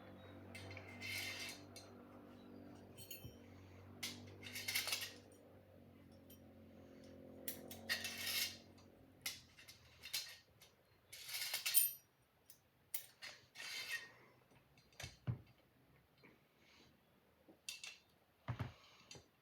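Steel blade drawn across a sharpening stone in a series of separate, irregularly spaced scraping strokes, each about half a second long.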